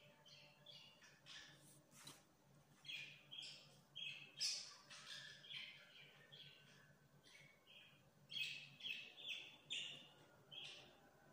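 Faint, irregular short chirps of small birds, some coming in quick runs, over a faint low steady hum.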